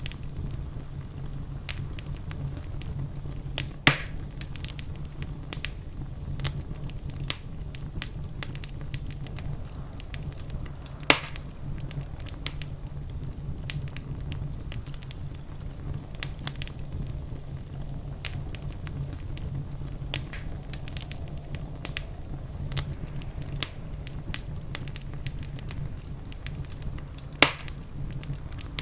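Wood fire crackling in a fireplace over a steady low rumble of flame, with many small snaps and three louder pops, about four, eleven and twenty-seven seconds in.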